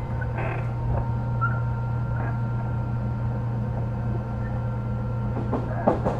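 Inside an Odakyu 3000 series electric train car: a steady low hum with faint steady whining tones, neither rising nor falling, and a few sharp knocks near the end.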